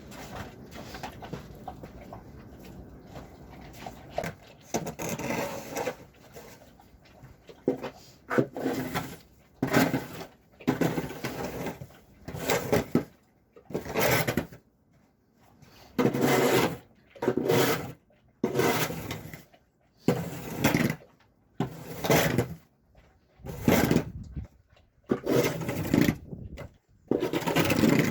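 Repeated crunching or scraping strokes in snow, one roughly every second and a half, after a stretch of steady low noise.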